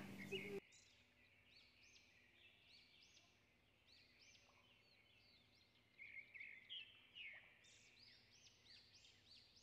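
Near silence with faint bird chirps in the background: short, repeated chirping notes, a little busier near the end.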